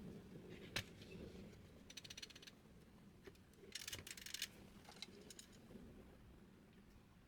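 Faint handling sounds of printer parts: a single click, then two short bursts of light rattling, about two and four seconds in.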